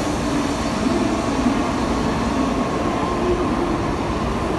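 Shinkansen bullet train running past along a station platform: a steady rushing rumble of wheels and air with an unbroken, wavering hum.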